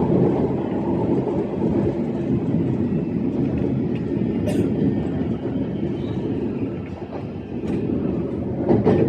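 E131-series electric train running along the track, heard from inside the train: a steady rumble of wheels and running gear, with a few short clicks along the way.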